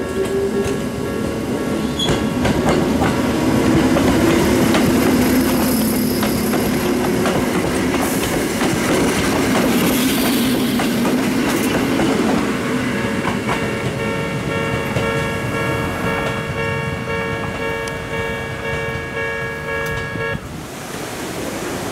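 Hakone Tozan Railway 1000-series electric train passing close by, wheels rumbling and clicking over the rail joints, with a faint high-pitched wheel squeal about halfway through. In the second half a level-crossing warning signal sounds with a steady ringing tone, which stops suddenly near the end.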